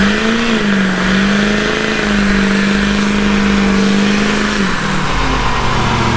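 Truck engine revved and held at a steady high pitch for several seconds, then let down about five seconds in.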